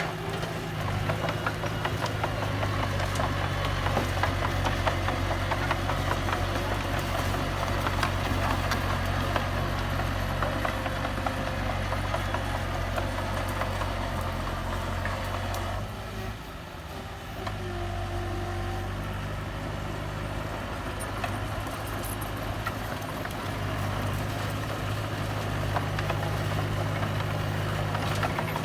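Diesel engine of heavy earthmoving machinery running steadily, with metallic clanking and rattling over it. The engine drops back briefly a little past halfway, then picks up again.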